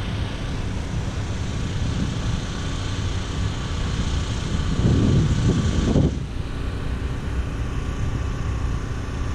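Steady low rumble of engines and machinery, with a louder low gust about five seconds in, like wind on the microphone.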